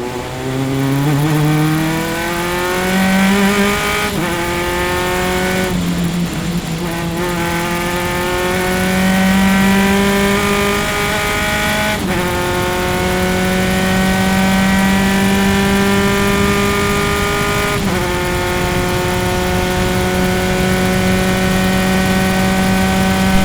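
Single-seater race car engine heard onboard, accelerating hard through the gears: the pitch climbs steadily and drops sharply at upshifts about 4, 12 and 18 seconds in, with a short dip in between around 6 seconds.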